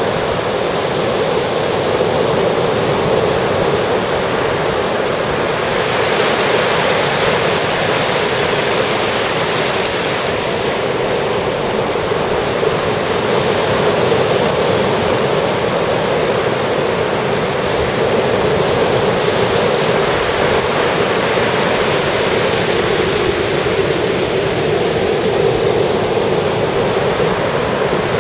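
Ocean surf breaking on the beach: a continuous rushing wash that swells every several seconds as waves come in.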